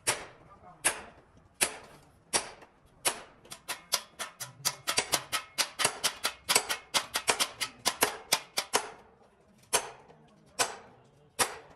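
A series of sharp knocks or taps, spaced out at first, then a fast run of several a second in the middle, then spaced out again.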